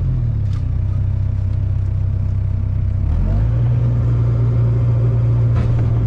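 Mini excavator engine running steadily. Its pitch sags at the start and climbs back up about three seconds in.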